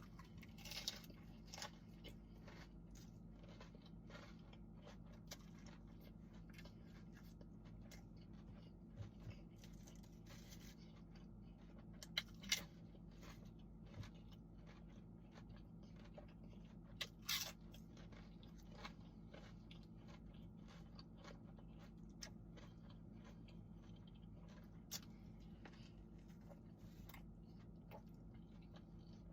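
Faint chewing and biting of a toasted steak-and-cheese sub, with scattered small mouth clicks and a couple of louder crunching bites near the middle, over a low steady hum.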